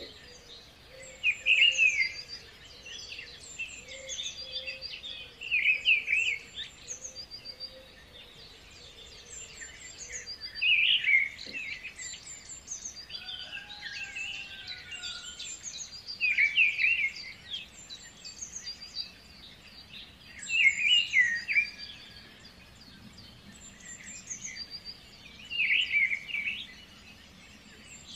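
Birdsong: several birds chirping and trilling, with a louder burst of song about every four to five seconds.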